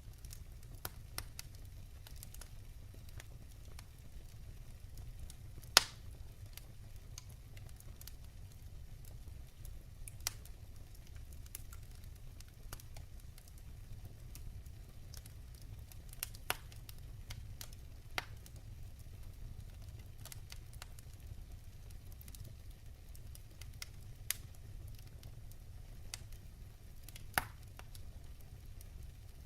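Wood fire burning in a fireplace, with a steady low rumble and scattered sharp crackles and pops from the logs, the loudest pops about 6, 16 and 27 seconds in.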